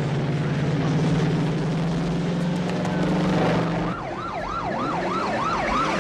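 A vehicle engine runs with a steady low drone that cuts off suddenly about four seconds in. Then police sirens start, wailing quickly up and down.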